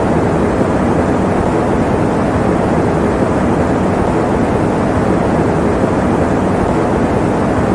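Electric fan running: a steady, even rushing noise, deep and dull, with little hiss on top.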